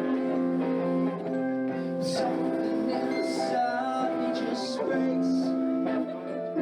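Live band playing a slow song: sustained, strummed guitar chords with a voice singing over them.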